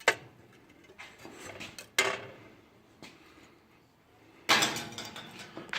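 Metal clanking and rattling from a cut-open muffler being handled, its loose, rusted baffles knocking inside: a sharp clank at the start, another about two seconds in, then a longer clattering rattle near the end.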